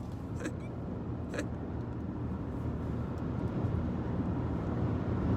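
Steady low road and engine rumble of a moving car, heard from inside the cabin, slowly getting a little louder, with two light clicks in the first second and a half.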